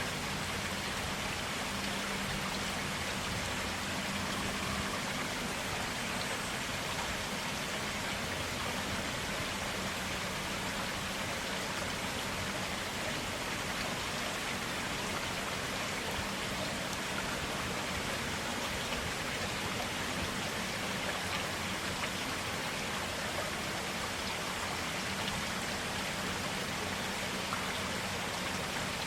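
Clear water of a small forest stream flowing and splashing steadily over stones.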